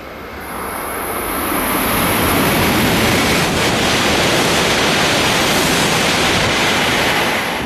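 E5 series shinkansen passing through a station at high speed without stopping: a loud rushing noise of air and wheels on rail. It builds over the first two seconds and then holds steady as the long train streams past.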